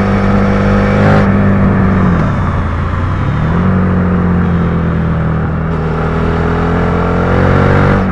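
Suzuki SV650's V-twin engine running under way; the revs drop off about two seconds in, pick back up about a second later, then climb slowly as the bike pulls.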